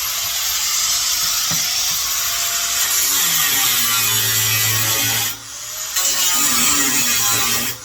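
A high-speed power cutting tool running into the steel shell of a muffler, with a high whine; it stops briefly about five seconds in and spins back up.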